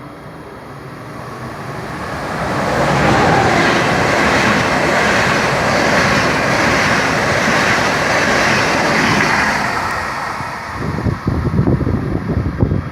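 A train running past close by: the rushing noise of the wheels on the rails builds over about three seconds, holds steady, then eases off. Irregular low thumps follow near the end.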